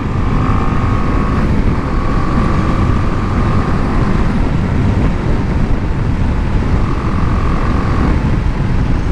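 BMW G 310 GS's 313 cc single-cylinder engine and exhaust running steadily, under a heavy low rumble of wind on the microphone.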